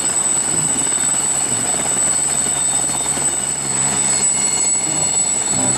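Helicopter sound, a steady running rotor and engine noise with a high steady whine.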